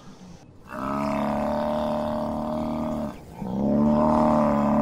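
A large farm animal calling twice: two long, low calls held at a steady pitch, the second louder and starting with a short upward slide.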